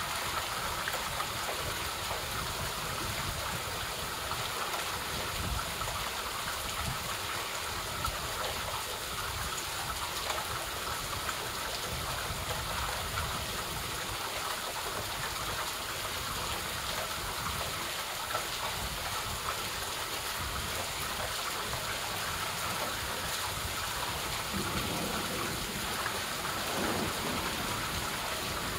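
Steady rainfall: an even hiss of rain falling on trees and the deck, with no letup.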